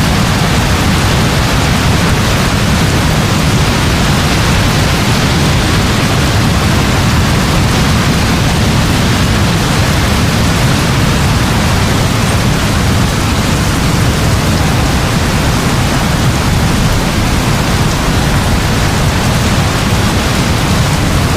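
Heavy rain falling steadily: a dense, even hiss with a constant low rumble underneath.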